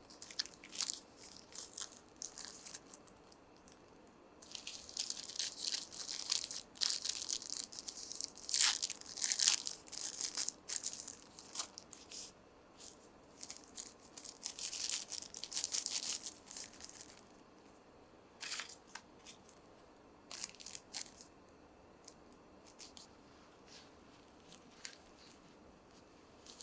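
Packaging being handled and torn open: irregular bursts of rustling and crinkling, busiest from about four to seventeen seconds in, with scattered short rustles after.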